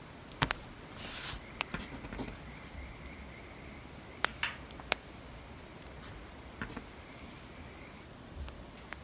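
Wood fire crackling: scattered sharp pops and snaps, a few of them loud, over a low steady hiss, with a faint thin high tone coming and going in the background.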